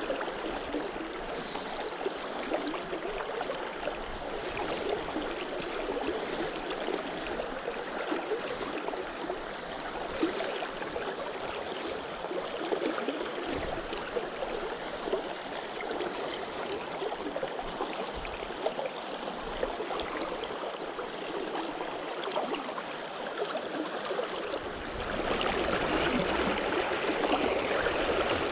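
River water flowing and rippling over stones, a steady rushing that grows louder about 25 seconds in.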